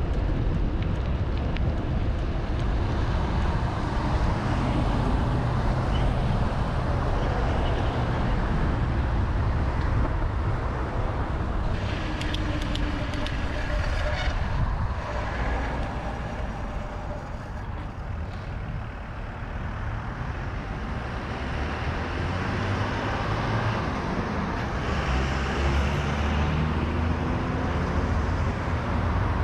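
Road traffic: cars and trucks passing, with a steady low wind rumble on the microphone.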